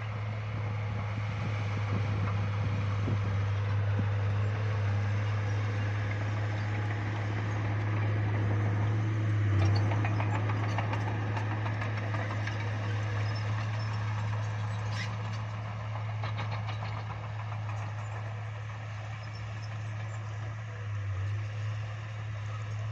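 Bulldozer's diesel engine running steadily with a deep drone, with a spell of metallic clanking about halfway through.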